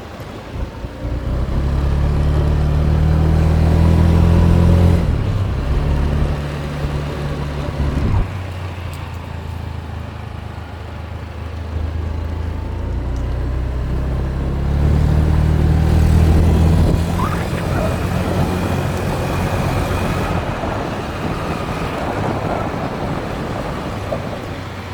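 A small motorbike engine running under way, its note changing in steps several times as the bike speeds up and slows, with road and wind noise.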